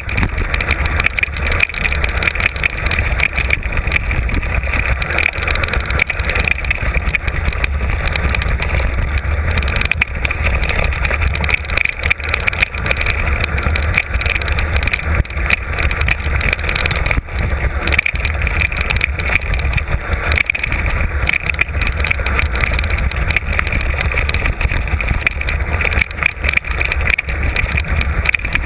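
Mountain bike on a rough downhill trail, heard from a camera mounted on the rider or bike: a constant rattle and rumble of tyres and frame over the ground, with many small knocks, and wind buffeting the microphone.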